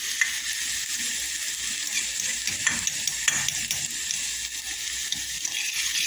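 Chopped onion and ginger frying in oil in a metal pot, sizzling steadily while being stirred, with the stirring scraping and clicking now and then against the pot.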